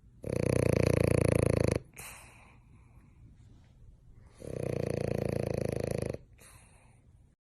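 A pet snoring loudly: two long snores, each about a second and a half, roughly three seconds apart.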